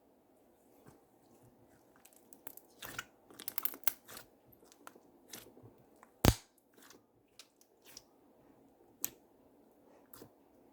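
Slime being squeezed and worked by hand, giving an irregular run of sticky clicks and pops, thickest in the first half, with one loud pop a little past the middle.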